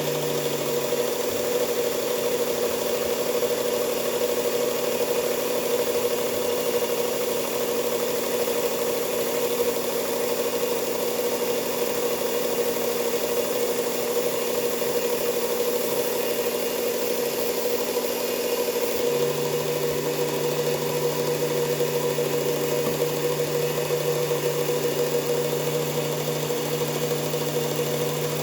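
Electric belt knife sharpener (Work Sharp Ken Onion Edition with blade grinder attachment) running steadily with a motor hum, a knife blade being sharpened on its belt. A lower hum drops out about a second in and returns about two-thirds of the way through.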